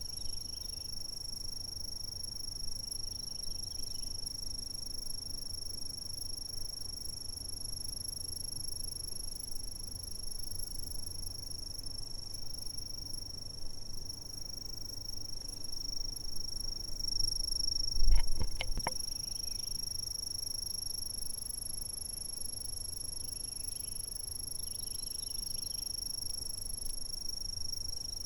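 Insects trilling in one steady, unbroken high note. A short cluster of sharp clicks or knocks about two-thirds of the way through is the loudest sound.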